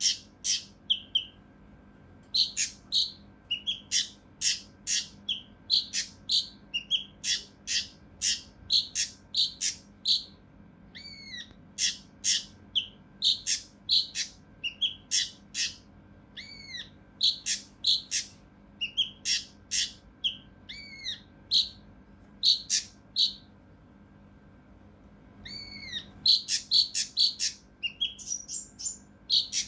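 Kinoi (cucak rante mas) songbird calling in quick runs of short, harsh, closely spaced notes, mixed with arched whistled notes. There is a pause of about two seconds near the end, then the calls resume.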